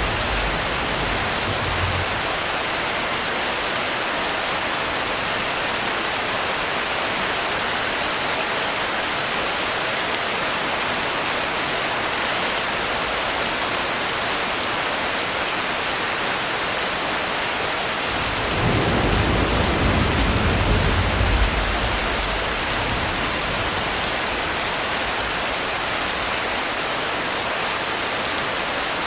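Steady heavy rain with thunder: a low rumble fades out in the first couple of seconds, and another rumble of thunder rolls in about two-thirds of the way through, lasting a few seconds.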